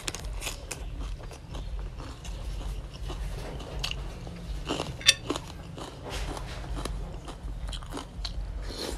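Close-miked chewing and crunching of a spicy chicken-feet salad with crisp raw greens: a run of wet bites and crackly crunches, with one sharp, loud crunch about five seconds in.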